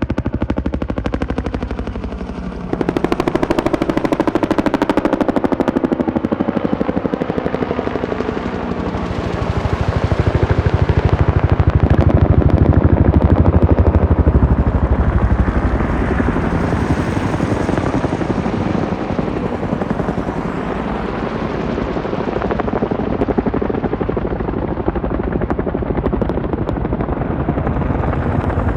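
Helicopter rotor blades beating in a rapid, steady pulse, getting louder toward the middle and then easing off.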